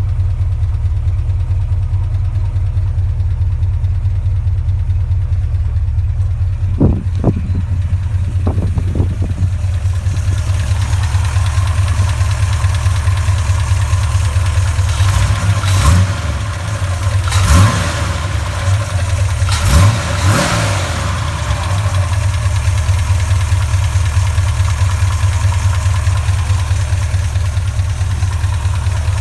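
390 V8 engine idling with a fast, even ticking that the owner takes for lifter noise. The throttle is blipped briefly several times, mostly between about a quarter and two-thirds of the way through, before it settles back to idle.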